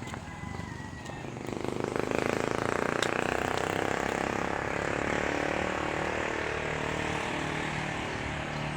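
A motor vehicle's engine passing by, swelling about a second and a half in and then slowly fading away.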